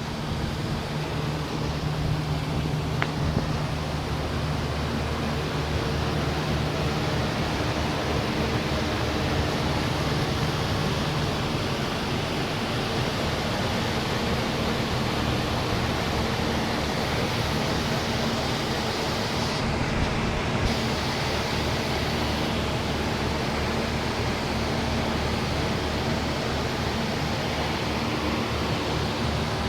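Witt and Lennox HVAC units running: a steady rush of fan air over a low, even hum.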